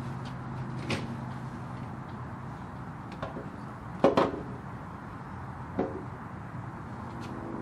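A few sharp knocks and clunks, the loudest about four seconds in, over a low steady hum.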